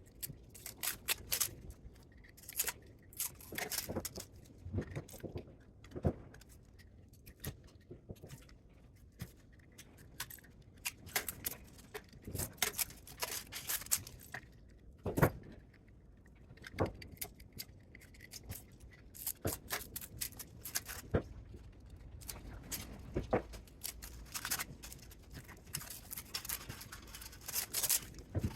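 Irregular metallic clinks, knocks and scrapes of hand tools and parts, as a scrapped spot welder is being taken apart; one knock about halfway through stands out as the loudest.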